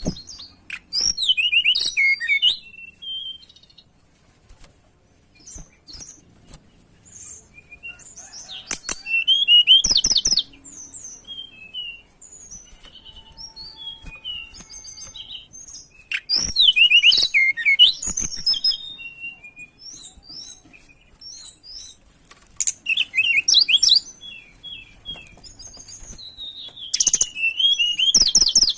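Tledekan gunung songbird singing: loud bursts of rapid, high twittering notes that come back about every six seconds, with softer scattered chirps in between.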